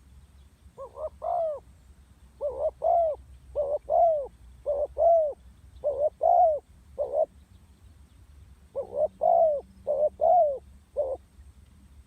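Female spotted dove cooing: a run of short, arched coos in quick pairs and triplets, with a pause of about a second and a half past the middle before the coos resume.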